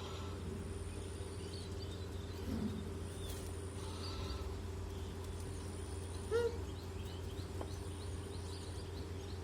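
Small birds chirping faintly now and then over a steady low hum, with one short louder call about six seconds in.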